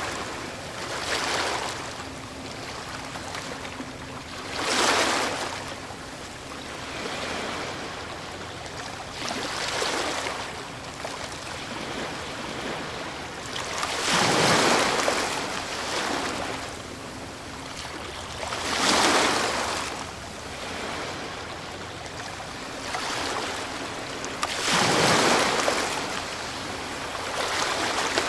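Ocean waves breaking on the shore: a loud rush of surf every four to six seconds, with a softer wash of water between the breaks.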